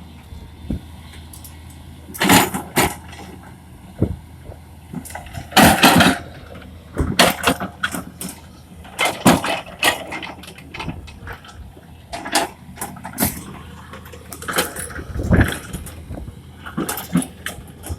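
Excavator engine running steadily under load, broken by irregular loud crunches and knocks from the digging and clearing work every second or two.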